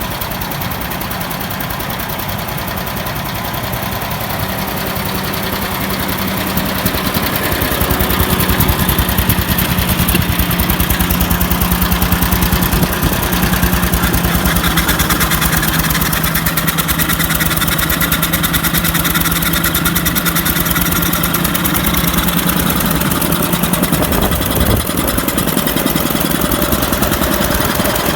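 Modified late-1950s Kohler pump-jack engine running steadily, driving an old belt-fed air compressor, with a rapid even beat. It grows louder about seven seconds in and then holds level.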